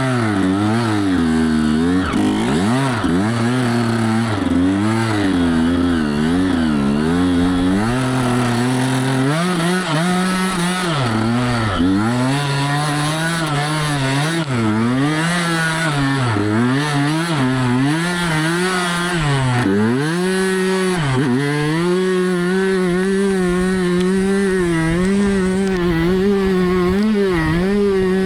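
Two-stroke dirt bike engine revving up and down as it is ridden, its pitch rising and falling every second or two. In the last quarter it holds a steadier pitch.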